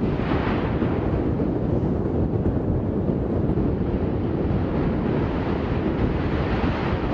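Wind buffeting the microphone over a steady low rumble, with no breaks.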